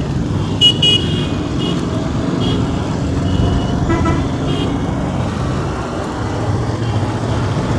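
Motorcycle engine and road noise with wind rush, steady, with several short high-pitched horn beeps in the first half, the loudest about a second in.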